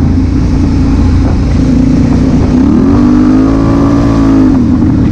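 Honda Africa Twin CRF1000L's parallel-twin engine running under way. It revs up about two and a half seconds in, holds the higher revs for a couple of seconds, then drops back near the end.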